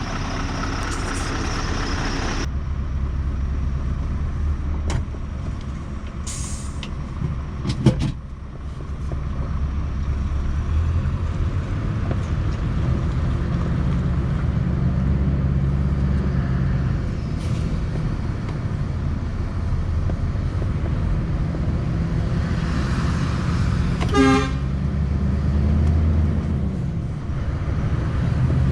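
Scania V8 truck engine running as the truck drives, its low note rising and falling with the revs. A sharp click comes about eight seconds in, and a brief horn toot about three-quarters of the way through.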